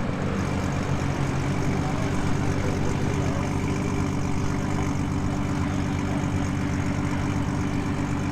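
A car engine idling steadily: an even, low hum with no revving.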